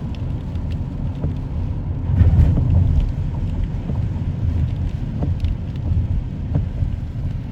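Car driving, a steady low rumble of engine and road noise that swells briefly a couple of seconds in.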